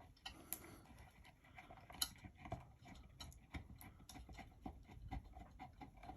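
Faint, irregular small clicks and taps of screws and a ceiling-fan mounting bracket being handled and fitted up to the ceiling box, the sharpest click about two seconds in.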